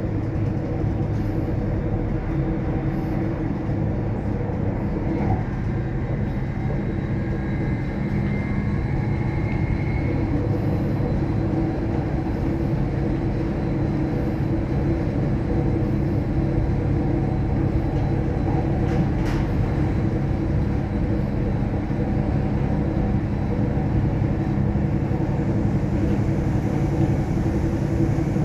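Alstom X'Trapolis electric railcar running at speed, heard on board: a steady rumble with a low hum, a faint high whine partway through and a single click near the middle.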